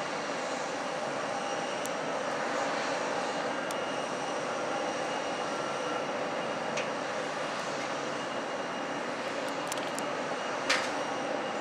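Airliner engines running steadily, a continuous rushing hum with faint steady whining tones. A single sharp click comes near the end.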